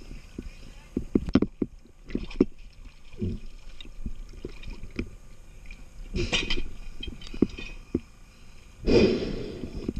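Underwater sound at a diver: two surges of bubbling from exhaled breath through a scuba regulator, about six seconds in and again near the end, with scattered sharp knocks and clicks in the first few seconds.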